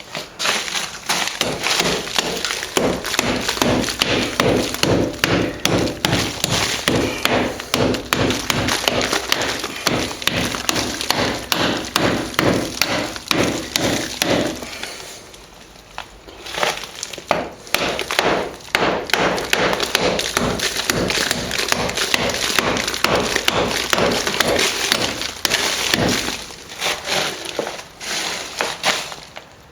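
Hand tool chipping and scraping out hard old plaster filler along a wall crack: rapid sharp knocks, several a second, with crumbling debris and brief pauses about halfway through and again near the end.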